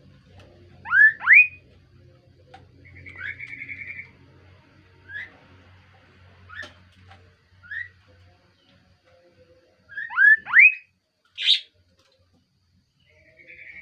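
Kaso-kaso bird calling: pairs of sharply rising whistled notes about a second in and again near the end, with a short buzzy trill and scattered short chirps between.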